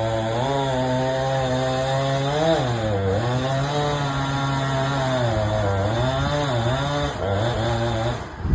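Chainsaw cutting through a large oak trunk, its engine pitch dipping under load several times as the chain bites and then recovering. The saw cuts out abruptly near the end.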